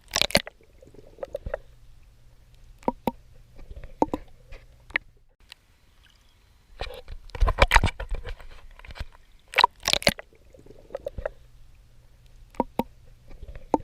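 A swimmer's strokes splashing in seawater: irregular bursts of splashing, the largest about halfway through and again a couple of seconds later, with small drips and knocks of water between them.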